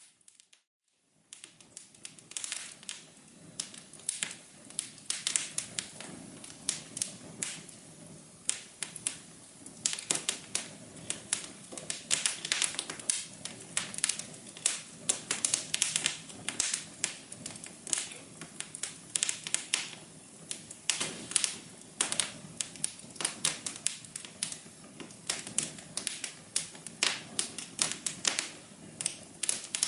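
Wood fire in a fireplace crackling, with a dense, irregular stream of sharp pops and snaps over a low hiss. It starts after about a second of near silence and grows busier partway through.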